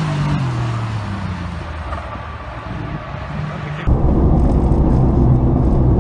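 Cammed Ford SVT Contour with a 3.0-litre Taurus V6 and full exhaust, heard from trackside: the engine note falls in pitch over the first second, then runs on steadily as the car moves along the course. Just under four seconds in, a sudden cut to a louder, steady low drone inside the cabin as the car cruises on the highway.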